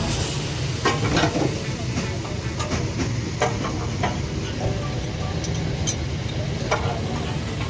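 Workshop noise: a steady low rumble with scattered short metallic clicks and knocks of tools, while a car's exhaust system is being fitted.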